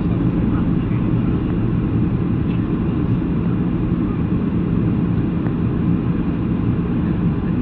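Steady low drone of an aircraft, with a constant hum and no change in pitch or level.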